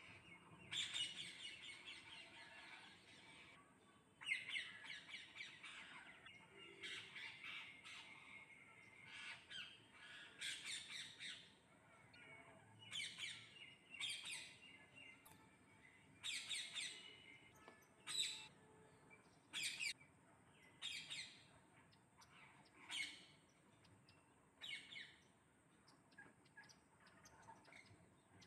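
Parrots squawking and chattering: two long bouts of harsh, rapid chatter in the first six seconds, then short harsh calls every second or two, thinning out near the end.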